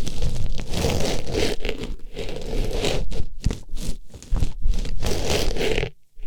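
Artificial rose pushed into and rubbed against a microphone's ear, making close, loud rustling and scraping with short breaks, the longest just before the end.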